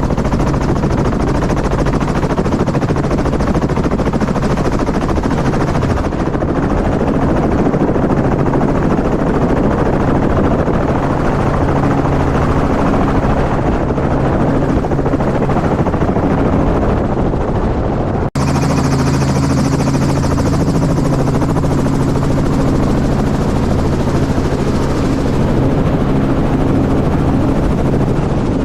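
Helicopter running, a loud steady rotor and engine sound, with a momentary break about two-thirds of the way through.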